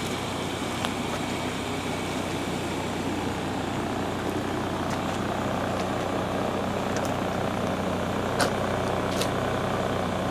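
A vehicle engine idling with a steady hum, and a few faint clicks.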